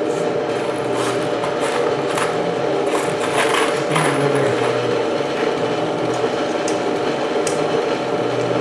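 Electric drill motor running steadily while boring into steel, with short scrapes and clicks from the bit.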